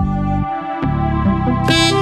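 Instrumental new-age style synthesizer music: sustained chords with a few light ticks. The bass drops out briefly about half a second in, and a bright, higher sound enters near the end.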